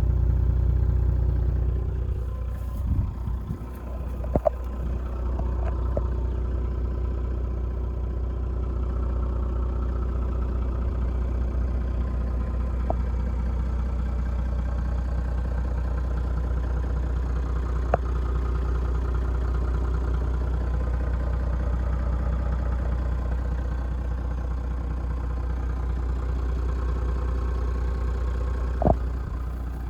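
Turbo-diesel engine of a 1999 Toyota Land Cruiser 100 Series, a 4.2-litre straight-six, running. It is a little louder for the first couple of seconds, then idles steadily, with a few single sharp clicks.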